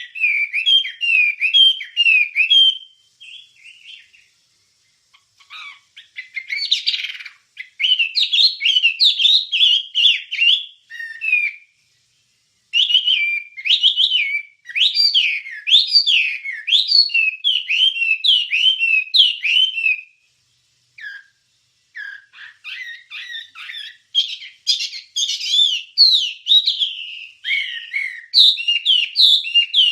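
Wambie songbird singing: fast runs of rapid chirps and whistled notes, broken by short pauses about four seconds in, near the middle and about two-thirds through.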